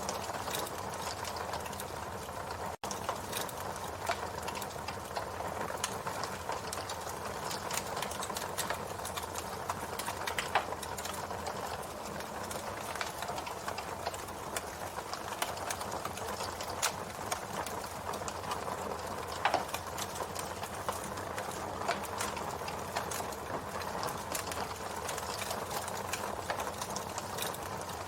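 Campfire burning, wood crackling with quick irregular pops over a soft steady hiss of flames, and a few louder pops. The sound cuts out for an instant about three seconds in.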